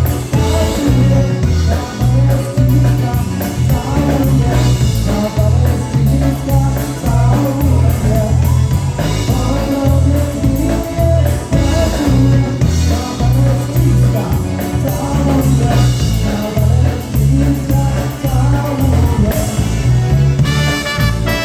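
Live polka band playing a polka over a steady, even bass beat, with a vocal sung in Polish. Near the end, brass comes in with held notes.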